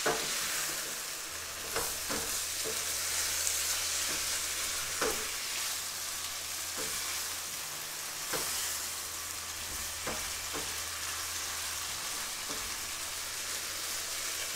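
Chicken and vegetables sizzling in a hot non-stick sauté pan while being stirred with a plastic spoon. A steady hiss runs throughout, with the spoon knocking lightly against the pan every second or so.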